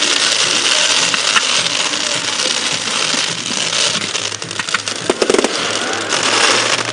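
Fireworks crackling densely and continuously, with a few sharper cracks about five seconds in, over a low steady hum.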